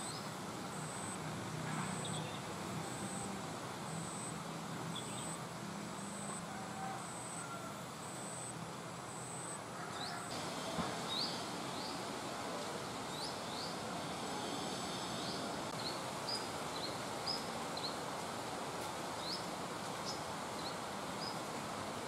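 Steady outdoor background noise. For the first half a faint, very high peep repeats about once a second. After an abrupt change in the background about halfway through, a small bird gives scattered short, high chirps that rise in pitch.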